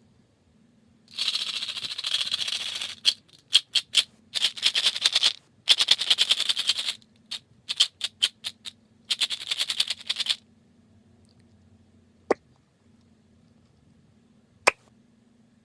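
Bursts of quick, crisp rustling and scratching, each one to two seconds long, come between about one and ten seconds in. After them there are two single sharp clicks.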